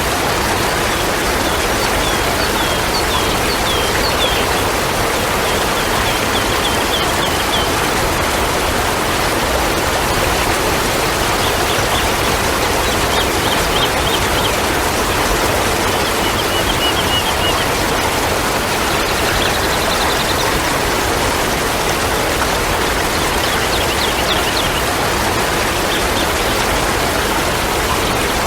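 Steady rushing of flowing water, with small birds chirping over it in short quick series of high notes, several times.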